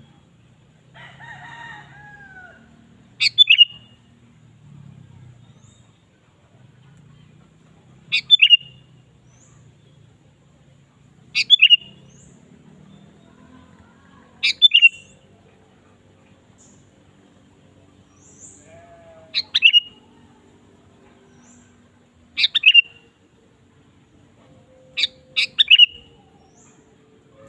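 Sooty-headed bulbul (kutilang) giving short, sharp calls every three to five seconds, each a quick falling note, several of them doubled.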